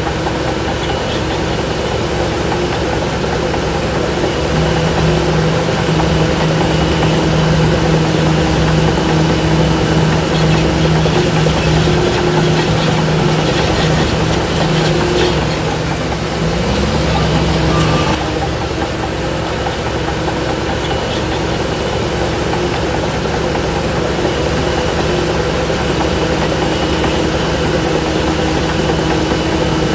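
Heavy diesel engine of earthmoving machinery running steadily under load. It grows louder from about four seconds in and drops back a little at about eighteen seconds.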